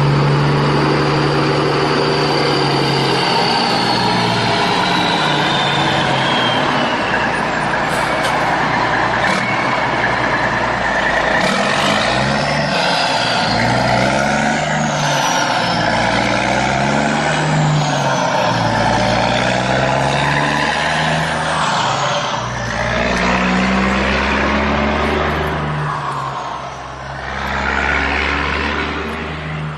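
Vehicle engine sound, running steadily with its pitch rising and falling again and again.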